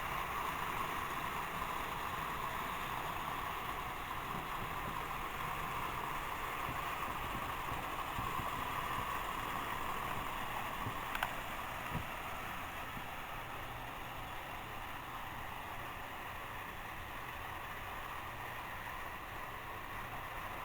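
Several toy trains running on their track, giving a steady whirring, rolling noise. A sharp click comes about 11 seconds in, and a softer one just after.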